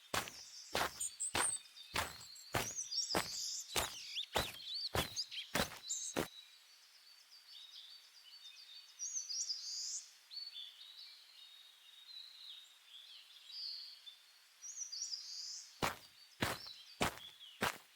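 Footsteps at a steady walking pace that stop about six seconds in and start again near the end, with birds chirping and calling throughout.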